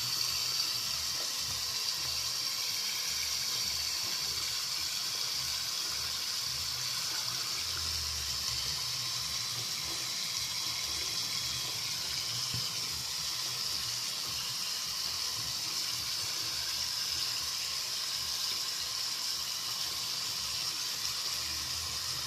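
Water running steadily from a tap into a sink, an even hiss.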